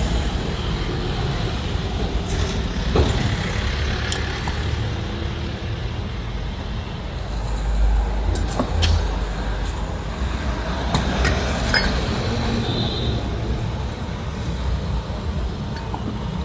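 Steady low rumble of vehicles, with a few short sharp clicks and knocks.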